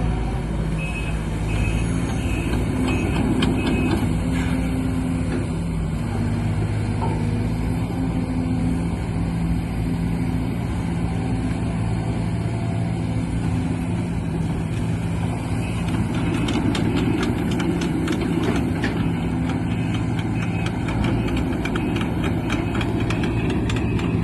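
Diesel engine of a Sumitomo amphibious excavator running steadily, working harder twice as the machine moves. A short run of high beeps sounds near the start, and a rapid clicking joins in the second half.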